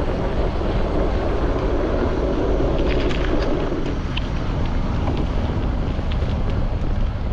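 Steady wind noise buffeting the microphone of a front-mounted GoPro on a moving bicycle, with low rumble from the ride; the rush lessens about four seconds in.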